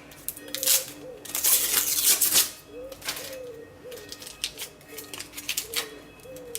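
Clicks and scrapes of hands working a cardboard Pringles-can mold and a bar of hot-process shaving soap, with a longer rasping scrape about a second and a half in.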